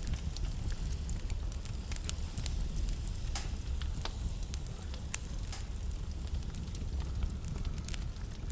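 Wood fire burning in a fireplace: a steady low rumble and hiss of the flames with frequent irregular crackles and sharp pops from the burning logs.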